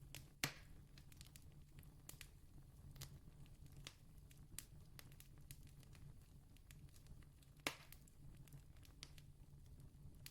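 Faint campfire crackling: scattered small pops, with two sharper pops about half a second in and about three-quarters of the way through, over a low steady hum.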